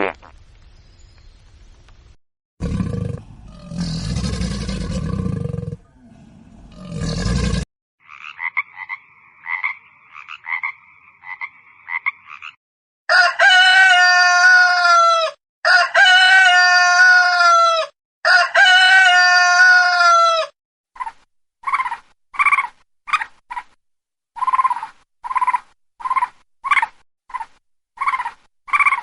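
A run of animal call recordings: a low, rough roar lasting about five seconds, a wavering mid-pitched call, then a rooster crowing three times in long calls, followed by short calls repeated about twice a second.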